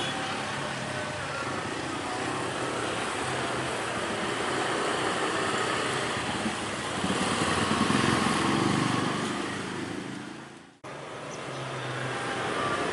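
Vehicle engines running steadily with a low hum, swelling as one passes close about eight seconds in; the sound then fades out and cuts back in abruptly.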